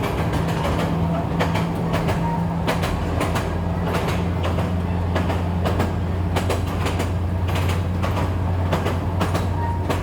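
A train running along the track: a steady low engine drone with irregular clicks and clacks of the wheels over the rail joints.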